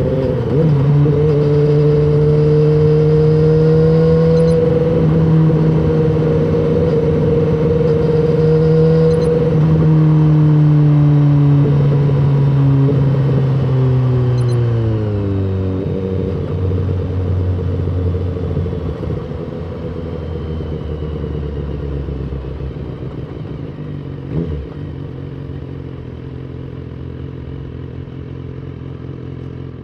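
BMW S1000RR inline-four engine running steadily at high revs, its pitch then falling over several seconds about eleven seconds in as the revs drop, settling into a lower, quieter note.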